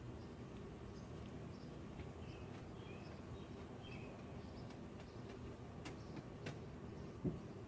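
Faint bird chirps over a steady low outdoor rumble, with a couple of sharp clicks and a brief low thump near the end.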